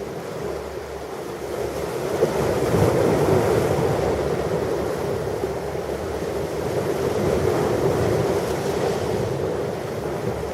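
Ocean waves washing onto a shore in a continuous rushing surf, swelling about two seconds in and easing off towards the end.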